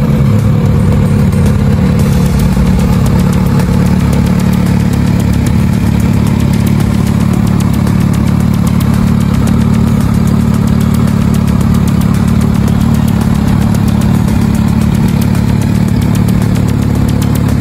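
Kawasaki Z900RS's 948 cc inline-four engine idling steadily.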